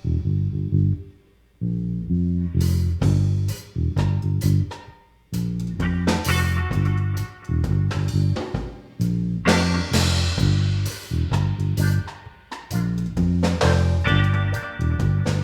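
A band playing an instrumental passage live: a prominent bass guitar line under guitar chords and drums, with two brief stops about one and five seconds in.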